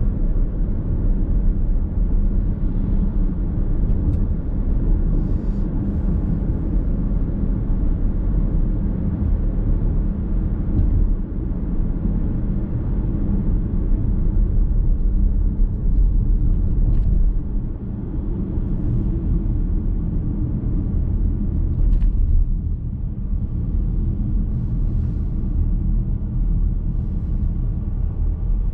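Car driving at steady speed, heard from inside the cabin: a steady low rumble of engine and tyre road noise, with a few faint small clicks.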